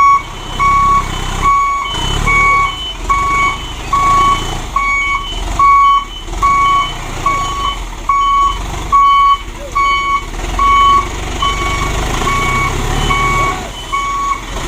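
Dump truck's reversing alarm beeping at an even pace, about one and a half beeps a second, over the low rumble of its engine.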